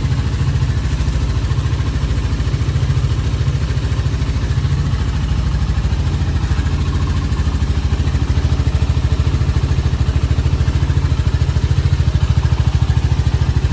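Big Hummer 250cc ATV's four-stroke air-cooled engine idling steadily, with a fast, even low pulse.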